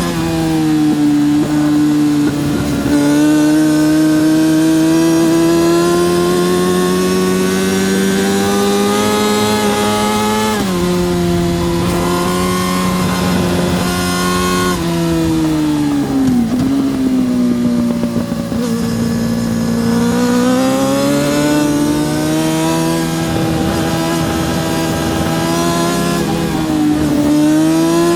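Yamaha R6 (RJ03) 600cc inline-four engine running hard at high revs around a racetrack. Its pitch climbs, then drops and steps back up again and again with gear changes and braking for corners.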